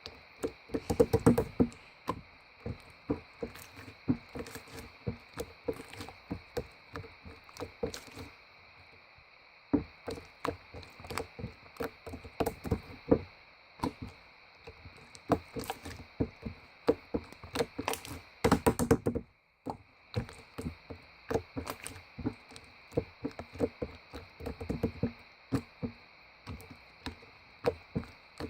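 Irregular knocking and tapping, short hard strokes at uneven spacing with denser flurries now and then, over a faint steady high hum.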